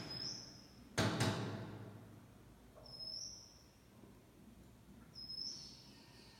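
A bird tapping its beak on window glass, a quick run of two or three sharp knocks about a second in. Three short high chirps, each rising in pitch, come near the start, about three seconds in and about five seconds in.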